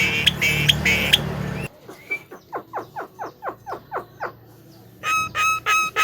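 Javan myna (jalak kebo) giving harsh, chattering calls over a low hum, which cut off abruptly. Then comes a quiet run of quick falling chirps, about five a second. Near the end a regular pulsing musical tone starts, about two beats a second.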